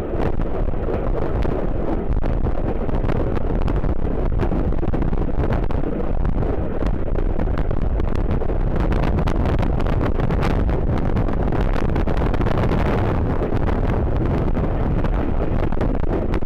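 Wind buffeting the microphone over a steady low rumble, with no clear break or change.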